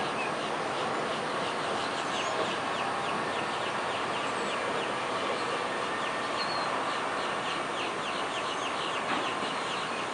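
Birds chirping in a quick run of short falling notes, about two or three a second, over a steady rushing background noise.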